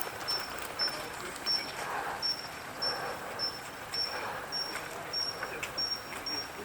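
Common kingfisher fledglings calling: short high notes, repeated about twice a second.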